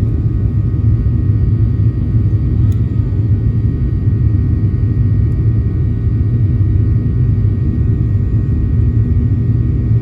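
Boeing 737-800 cabin noise: its CFM56 jet engines at high power, a steady, loud low rumble with a faint thin whine above it.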